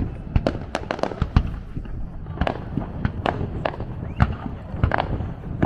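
Aerial fireworks display of Japanese-style shells bursting: an irregular string of sharp bangs and cracks, two or three a second, over a steady low rumble.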